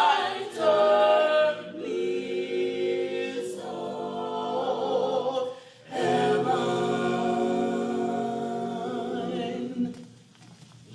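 Church choir singing a cappella gospel, held chords in two phrases with a short break between them; the last chord is sustained and fades out near the end.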